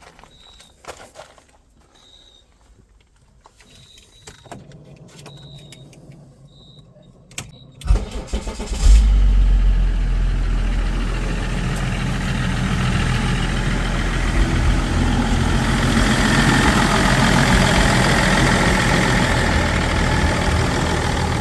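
A few short high beeps, then about eight seconds in the Range Rover's 3.0 BMW M57 diesel cranks, catches and settles into a steady idle, running on its newly fitted turbocharger.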